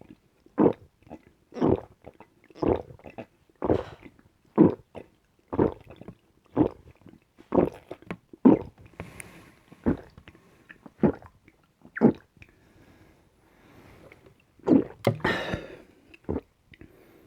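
A person gulping a drink down without stopping, about one swallow a second. The gulps stop about twelve seconds in, and a few seconds later comes a louder, breathy rush lasting about a second.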